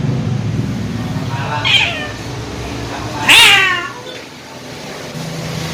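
Domestic cats yowling at each other in a territorial fight: two calls, a shorter one and then a louder one about halfway through whose pitch falls. A low rumble runs underneath.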